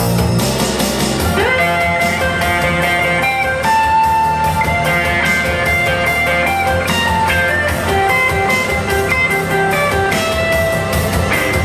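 Live band music: an electric guitar plays a melodic lead line over a steady beat. The lead slides in about a second and a half in.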